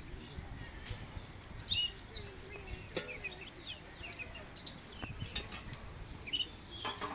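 Small birds chirping: many short, quick calls, some sliding up or down in pitch, scattered over a low background rumble, with a few faint clicks.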